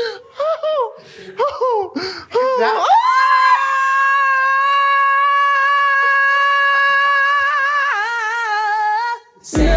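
A woman's voice holding one long high sung note, with vibrato near the end, after a couple of seconds of short sliding vocal warm-up sounds and giggling.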